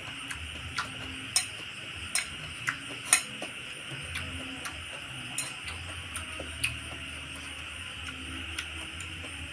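Close-up eating sounds: chewing and mouth smacks with a dozen or so sharp, irregular clicks, over a steady hiss.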